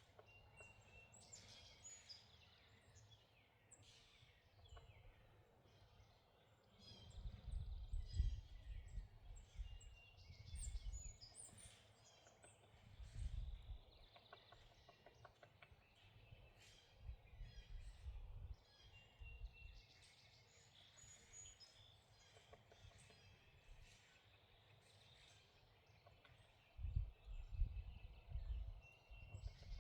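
Faint songbirds chirping and calling, many short high chirps. Irregular low rumbles come and go, loudest from about seven seconds in and again near the end.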